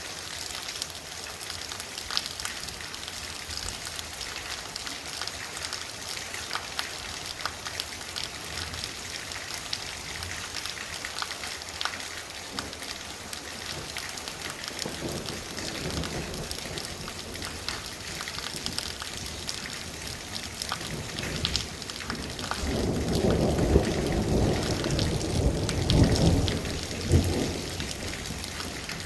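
Torrential rain pouring steadily, its drops pattering on surfaces. About three quarters of the way through, a loud roll of thunder rumbles for several seconds, after a fainter rumble near the middle.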